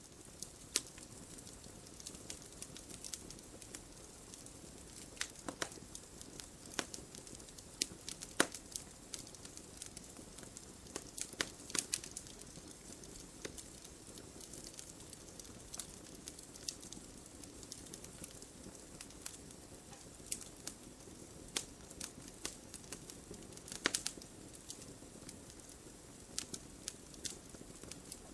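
Wood logs burning in a fireplace: a soft steady rush of flame with frequent irregular crackles and sharp pops, a few of them louder than the rest.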